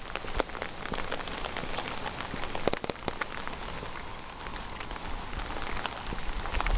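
Steady rain falling, with many close drops ticking sharply on nearby surfaces.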